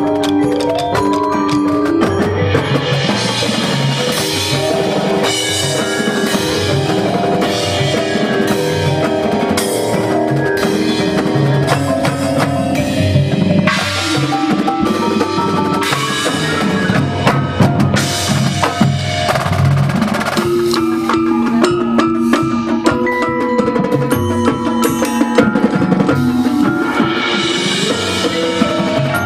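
Percussion ensemble playing: snare and bass drums beating a busy rhythm over sustained pitched tones, with mallet keyboards heard around it.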